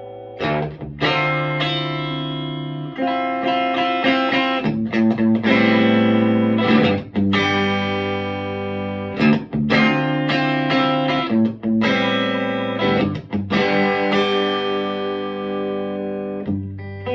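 Electric guitar played through a Vintage Sound Amp: a run of strummed chords, each struck sharply and left to ring before the next one changes pitch.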